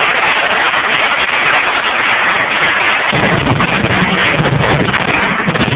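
Audience applauding loudly, a dense crackle of many hands clapping that overloads the recording; about three seconds in a heavier, deeper rumble joins it.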